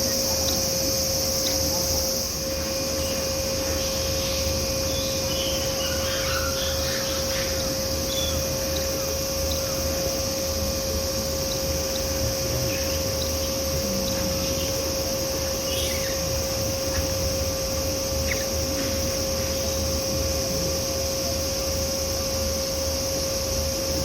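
Summer insects, cicadas, buzzing steadily in one high band, over a steady low hum, with a few faint short chirps scattered through.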